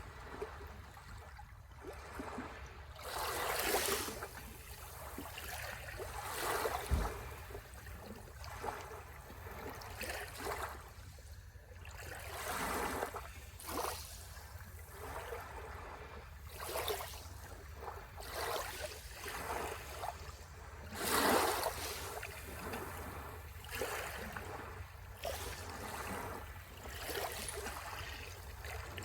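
Waves breaking and washing on a shore, the surf swelling and falling every one to three seconds, with the biggest surges about four, seven and twenty-one seconds in, over a steady low rumble.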